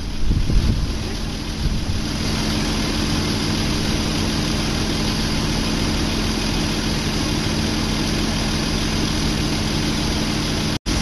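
Nissan Pathfinder engine idling steadily under an even hiss; the sound cuts out for a moment near the end.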